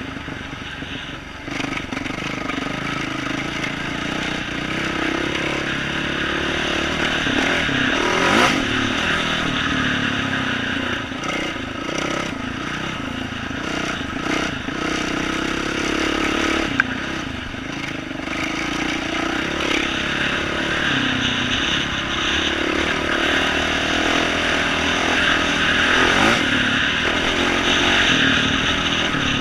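2012 Yamaha YZ450F dirt bike's single-cylinder four-stroke engine through an aftermarket exhaust, revving up and down as it is ridden over a rooty trail. A single sharp knock sounds a little past halfway.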